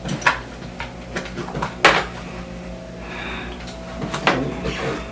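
Scattered clicks and knocks of roller-skate wheels and bearings being handled while the bearings are pushed by hand into the wheel hubs, with one sharper knock about two seconds in.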